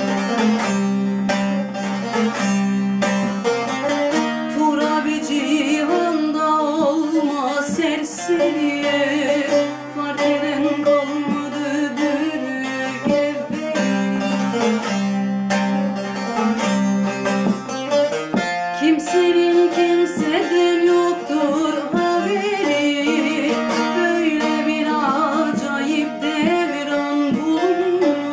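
Bağlama (saz) played in a fast, plucked instrumental passage over held low drone notes.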